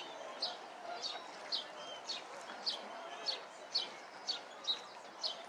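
A bird calling a short, high note that falls in pitch, repeated steadily about twice a second, over a faint murmur of distant voices.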